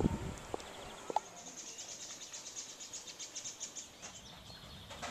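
A bird's high, rapid trill of repeated notes lasting a few seconds, over outdoor background noise, with a couple of light clicks in the first second.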